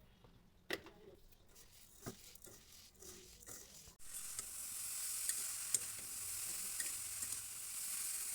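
Kitchen utensils clicking and knocking for a few seconds, then a pan sizzling steadily with light clicks of stirring, starting abruptly about four seconds in.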